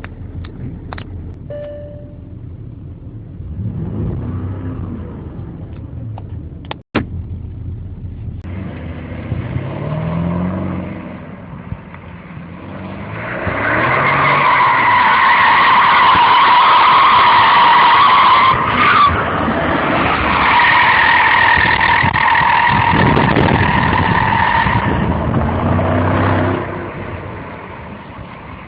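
Porsche Cayenne Turbo's turbocharged V8 accelerating and shifting up through the gears, then the tyres squealing loudly for about thirteen seconds with a steady high whine, the engine still running beneath it. A sharp click with a brief dropout comes about seven seconds in.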